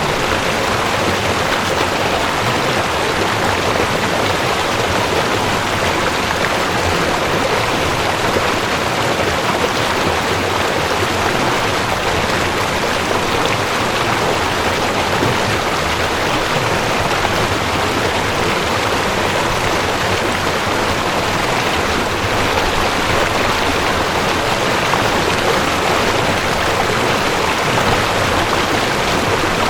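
Cold mountain stream rushing over rocks: a steady, even rush of water with no break or change.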